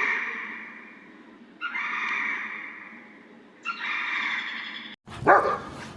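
An animal call repeated three times, about two seconds apart, each starting sharply and fading out. About five seconds in, it breaks off and a different, louder animal sound begins.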